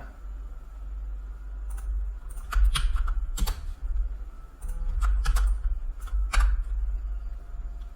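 Computer keyboard keys clicking in irregular taps and short clusters, over a steady low hum.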